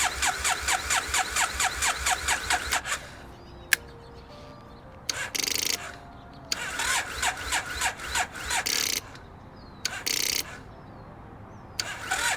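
Triumph Bonneville's starter cranking the parallel-twin engine in even pulses, about six or seven a second, for some three seconds. It never catches, and three or four shorter cranking attempts follow. The battery is too weak to start it.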